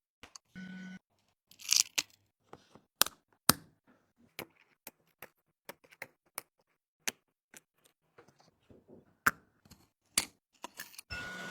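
Small hand tools clicking and tapping on phone parts during a repair: irregular sharp clicks and ticks, with a short steady buzz just under a second in and another near the end.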